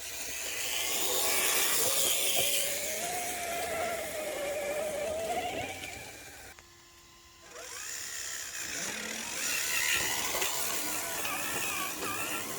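Electric motor and gear drive of an RC rock crawler whining, the pitch wavering up and down as the throttle changes. The whine drops out for about a second roughly two-thirds of the way through, then picks up again.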